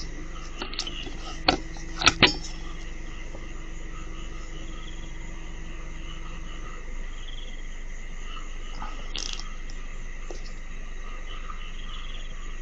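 Steady night chorus of frogs and insects calling. Three short, sharp clicks about a second and a half to two and a half seconds in.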